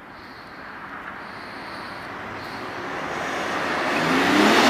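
A car approaching: tyre and engine noise grows steadily louder, and an engine note comes through near the end as it draws close.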